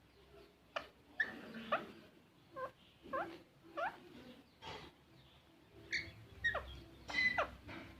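A green parrot making a series of short squeaky calls and whistles, many sliding down in pitch, about a dozen at irregular intervals.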